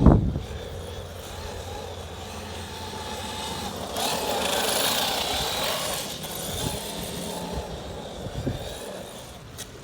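Electric RC monster truck (Traxxas X-Maxx with a Hobbywing brushless motor) running, with a knock right at the start. A louder rush of motor and tyres swells about four seconds in and fades away.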